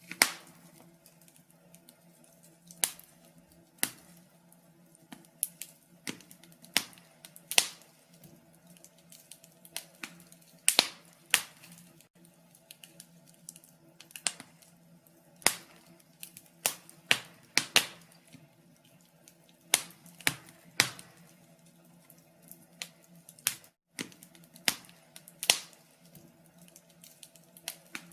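Wood fire crackling in a fireplace: sharp, irregular pops and snaps about once or twice a second, some coming in quick pairs, over a faint steady hum.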